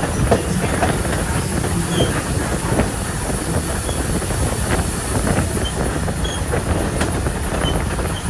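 Strasburg Rail Road passenger train cars rolling steadily along the track, with a continuous rumble and many small clicks and rattles from the wheels and couplings.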